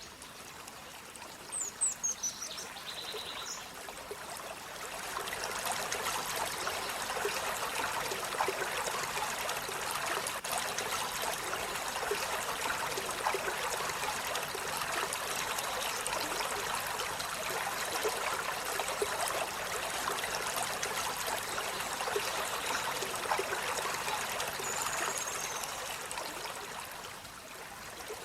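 Steady rush of running water, like a stream, swelling in a few seconds in and easing off near the end. A few short, high bird chirps come near the start and once more near the end.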